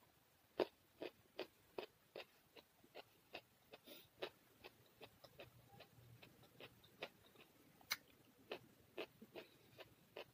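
Close-miked chewing with the mouth closed: a steady string of soft mouth clicks and smacks, about two or three a second.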